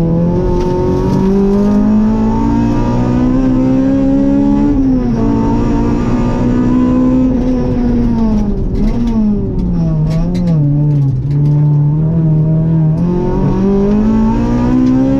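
Rally car engine at speed, heard from inside the cabin. The engine note climbs for a few seconds and drops sharply about five seconds in. It falls away again around eight to ten seconds in, with a few short clicks, then climbs once more near the end.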